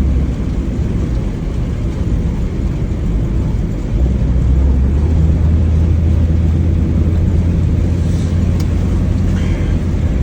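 Mitsubishi Lancer on the move, a steady low engine and road rumble that gets louder about four seconds in.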